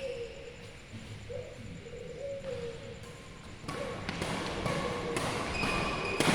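Indoor badminton play: short squeaks, like shoe soles on a court floor, and then, from about halfway, a run of sharp knocks with higher squeaks that grows louder toward the end.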